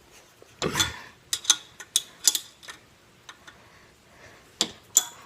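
Irregular sharp metallic clicks and ticks of a small wrench working the bolts that hold the baffle in a dirt bike's muffler, with a duller knock about a second in.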